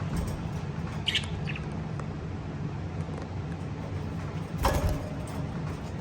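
Lovebird giving a short high chirp about a second in, followed at once by a fainter one, over a steady low hum. A louder brief rustle or thump comes near the end.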